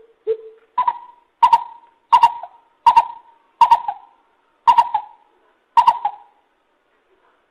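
Lesser coucal calling: a series of short hollow hooting notes. One lower note opens the series, then about seven higher notes follow at steady spacing, ending about six seconds in.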